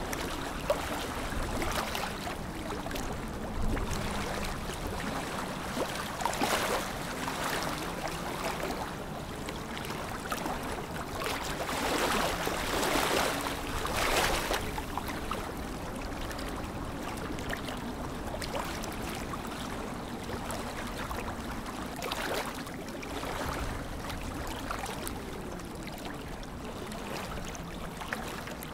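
Lake water lapping and washing, a continuous wash that swells in several stronger surges, the biggest about halfway through.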